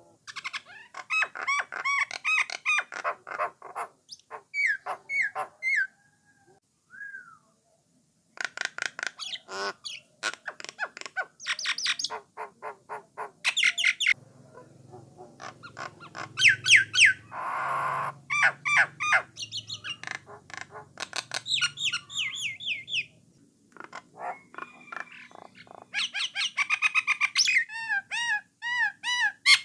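Jalak Nias (jalak coklat) starling singing: a varied run of quick whistles and chattering notes in phrases broken by short pauses, with a harsh rasping call near the middle.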